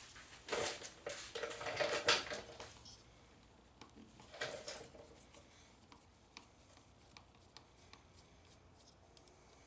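Hand tools and small metal parts being handled on a workbench: a run of clatter and scraping in the first couple of seconds and another brief one about four and a half seconds in, then only faint small clicks.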